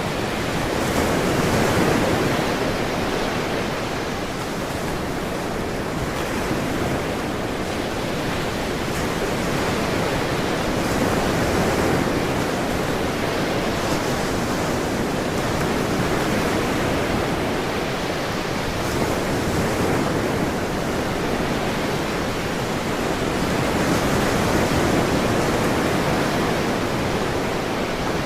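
Ocean waves breaking and washing on a shore, a steady rush of surf that swells gently every several seconds.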